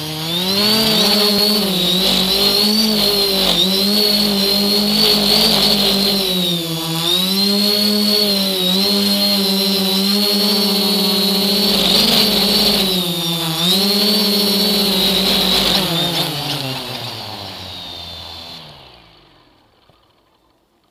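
A motor spins up, runs at a high, fairly steady speed for about fifteen seconds with a high whine above its hum and a couple of brief dips in pitch, then winds down and stops. It is run to show a vibration that is suspected in it.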